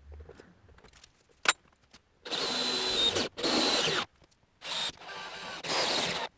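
A power tool running in four short bursts of under a second each, with a faint whine in each. A sharp click comes before the first burst.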